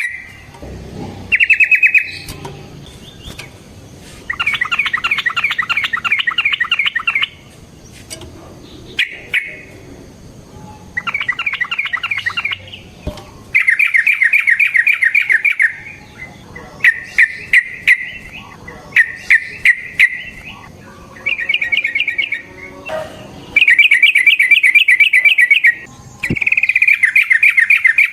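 Yellow-vented bulbul (trucukan) singing: about ten bouts of fast, rolling chattering notes, each one to three seconds long, with short pauses and a few sharp ticks between them.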